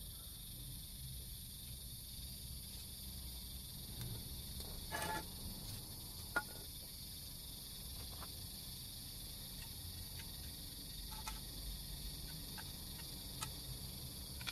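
Steady high-pitched chirring of crickets, with a few light clicks scattered through.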